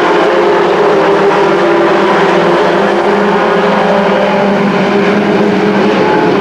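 Engines of a pack of short-track race trucks running at speed around the oval, a loud steady blend of several engines with no let-up.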